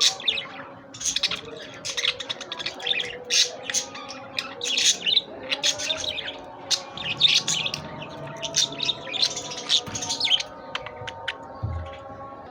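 Budgerigar chirping in quick, busy runs of short high chirps, thinning to a few brief clicks near the end.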